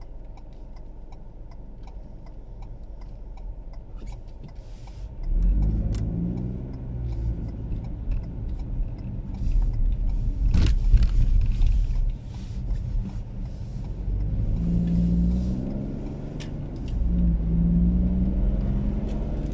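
Car engine and road rumble heard from inside the cabin: a quiet idle for about five seconds, then the car pulls away and accelerates, the engine note rising in surges, dropping briefly partway through and climbing again twice. A single sharp click about ten seconds in.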